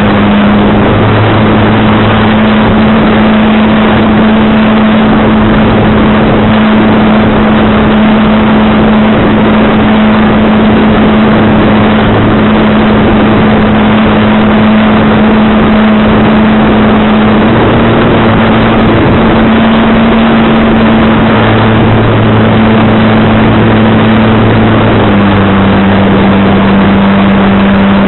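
Strong wind blowing on the microphone: a loud, steady rushing, with a steady low hum under it that shifts slightly in pitch a few times.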